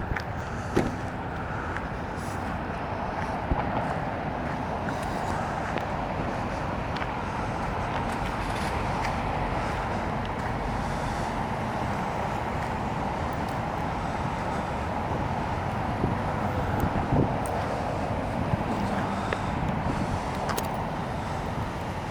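Steady road traffic noise of cars passing along a busy avenue, with a few light clicks.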